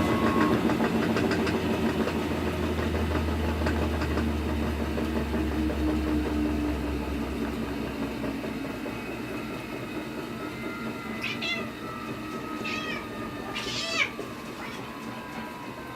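Washing machine drum winding down after its spin: the motor's low hum fades away while a whining tone slowly falls in pitch, a sound likened to a UFO landing. Three short high chirps come near the end.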